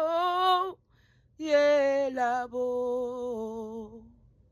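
A woman singing a cappella, chanting 'yelabo' freestyle in tongues. A held note ends just under a second in. After a short pause a new phrase steps down in pitch and fades out about four seconds in.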